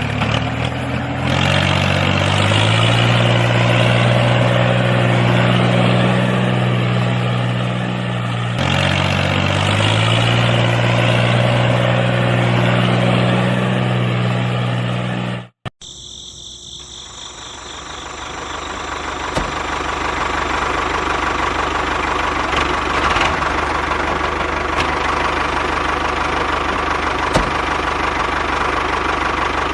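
Tractor engine sound running at a steady low idle, its pitch stepping up twice. It cuts off suddenly halfway through and is replaced by a noisier steady motor whir with a faint high whine.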